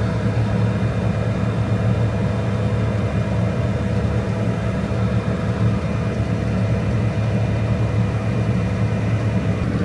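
A heavy engine idling steadily, a constant low drone that does not change.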